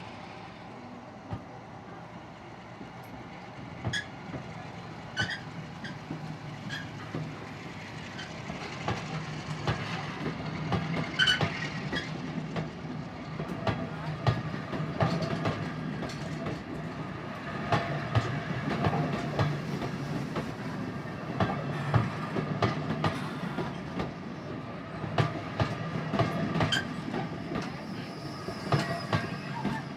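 Passenger train hauled by a Class 55 diesel locomotive running along the line: a steady low drone with the irregular clicks and knocks of wheels over rail joints. It grows louder from about a quarter of the way in.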